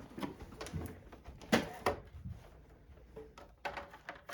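A few light knocks and clatters, the loudest about a second and a half in, as a meal tray and its items are handled and set down.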